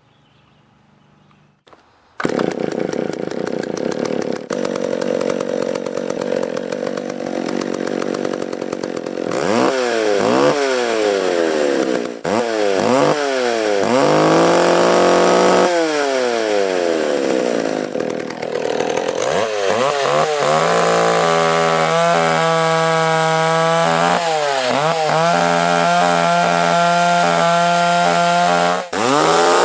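A McCulloch Power Mac PM605AV-20 55cc two-stroke chainsaw starts about two seconds in and runs unevenly for several seconds. It is then revved up and down again and again, and in the last third it is held at a steady high speed with a brief drop near the end.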